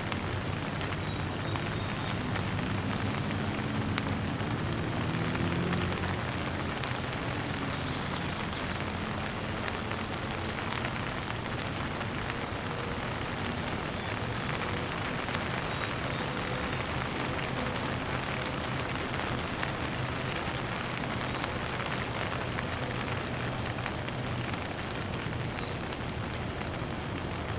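Steady rain falling on a surface, an even hiss of many drops. A faint low hum rises and falls a few seconds in.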